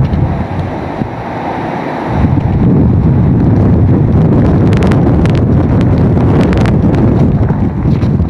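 Hurricane wind buffeting the microphone, a loud rushing roar that strengthens about two seconds in. A quick run of sharp clicks or rattles cuts through in the middle.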